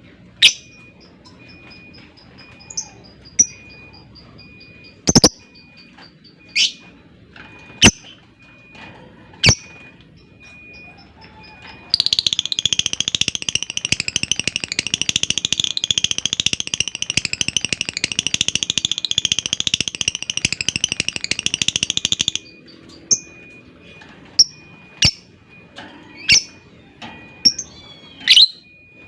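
Lovebirds calling: sharp single chirps every second or two and a fast ticking trill near the start, then about ten seconds of continuous high chattering, the long 'ngekek' of a lovebird, from about twelve seconds in, after which the single chirps resume.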